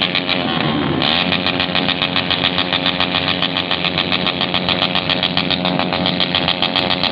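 Motorcycle engines with open, unsilenced 'knalpot brong' exhausts held at high revs, loud, with a fast even pulsing.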